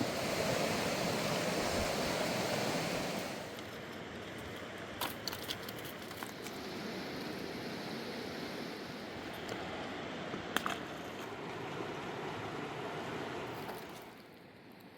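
Fast mountain river rushing: a steady wash of water noise, louder for the first few seconds and dropping near the end, with a few short clicks.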